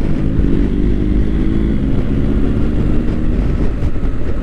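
BMW GS boxer-twin motorcycle engine running steadily at cruising speed, with wind noise on the microphone.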